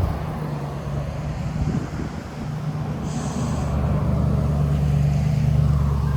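Gusty wind of about 30 mph buffeting the microphone: a low, rumbling roar that swells over the last couple of seconds. A brief high buzz comes through about three seconds in.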